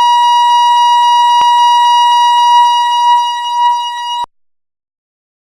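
A steady, high-pitched electronic beep tone held without a break, then cut off suddenly about four seconds in, after which there is silence.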